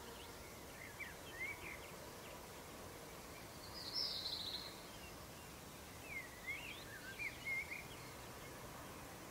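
Faint outdoor ambience with birds chirping: a few short rising and falling calls about a second in and again from six to eight seconds, and a brief, higher call about four seconds in.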